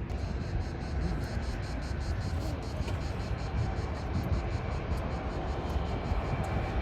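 Jet airliner engine noise: a steady, broad rumble with strong low bass.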